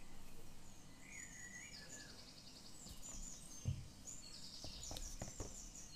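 Small birds chirping faintly: short chirps and several fast, high trills over a low steady hiss. A soft thump comes about halfway through, followed by a few light clicks.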